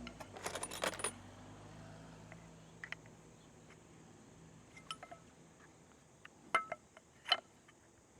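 Metal parts of a kayak landing-gear leg clinking and clicking as they are handled and fitted: a quick cluster of clinks about half a second to a second in, then scattered single clicks, the sharpest near the end.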